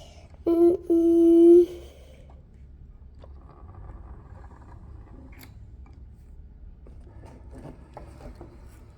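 Two horn-like beeps, one short and then one longer lasting about a second, on a single steady pitch. Faint light clicks follow, like plastic toy pieces being handled.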